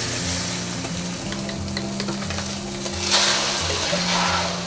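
Egg omelette with scallions and carrot frying in hot oil in a wok, a steady sizzle. The sizzle swells about three seconds in as the omelette is turned over with a metal spatula.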